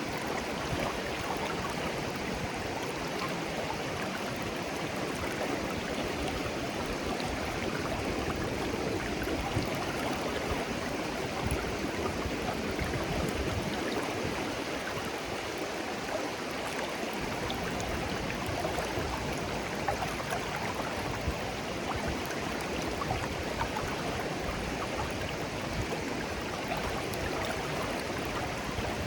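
Shallow clear stream flowing gently, a steady babbling rush of water.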